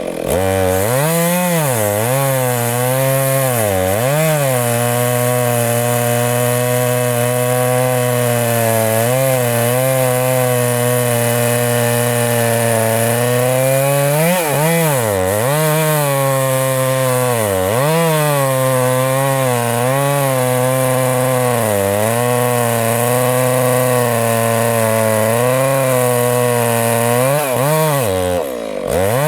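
Chainsaw running at high throttle while cutting into a huge tree trunk, its engine pitch sagging and recovering every few seconds as the chain bogs under the load of the thick wood.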